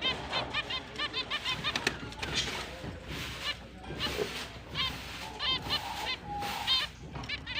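Pet finches chirping: quick runs of short repeated calls from several birds, overlapping one another.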